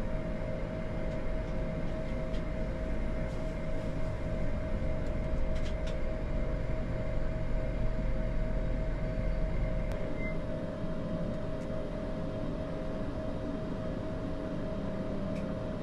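Steady flight-deck hum of an Airbus A220-300 on the ground, its Pratt & Whitney PW1500G geared turbofans running at idle just after start. There is a low rumble under a pair of steady mid-pitched tones, and the rumble eases slightly about ten seconds in.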